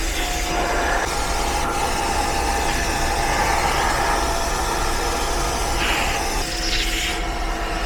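Portable upholstery cleaner (spot extractor) running as it cleans upholstery: a steady motor whine over a noisy rush of suction, the sound shifting about six and a half seconds in.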